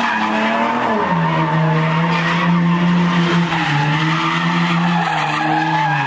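Car engine held at high revs while its tyres spin and squeal against the pavement. The engine note dips about a second in and then holds steady under the squeal.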